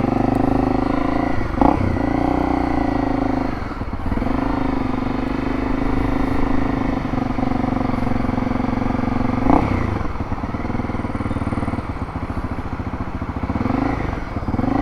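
Motorcycle engine running steadily at low speed, with its note changing briefly a few times.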